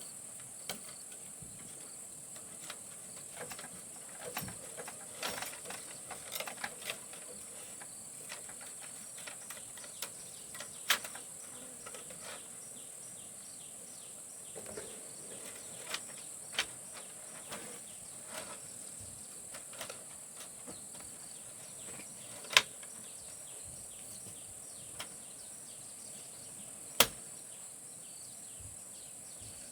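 Steady high-pitched drone of insects, with a few scattered sharp clicks or snaps, the loudest about 11, 22 and 27 seconds in.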